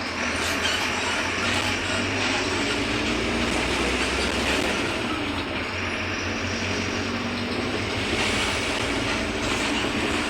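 Mercedes-Benz OF-1721 Bluetec 5 city bus under way, heard on board: its front-mounted diesel engine running with road and body noise, steady throughout.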